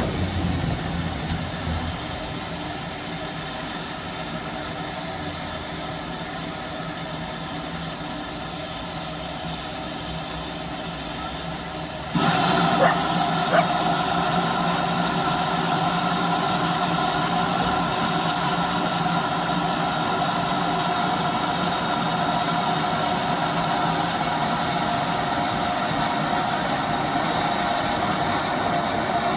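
Steady vehicle running noise that jumps abruptly louder about twelve seconds in, after which a steady hum with a couple of held tones carries on.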